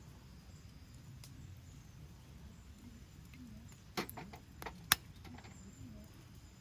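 A few sharp clicks or cracks about four to five seconds in, the last one the loudest, over a low steady rumble.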